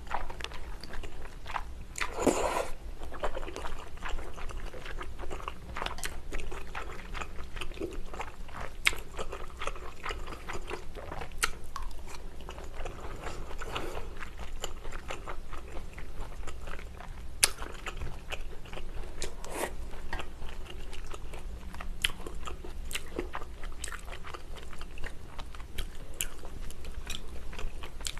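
Close-up chewing and biting of braised kimchi with pork, glass noodles and bean sprouts, with crunchy, wet clicks throughout. One longer, louder mouth noise comes about two seconds in.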